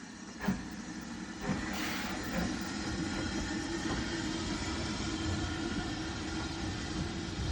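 Steam train running past, the sound building to a steady rolling noise, with two sharp knocks early on about a second apart.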